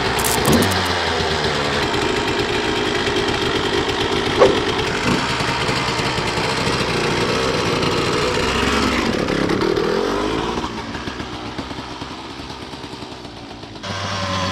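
Motorcycle engines revving, the pitch rising and falling. The sound dies down about ten seconds in and comes back up near the end.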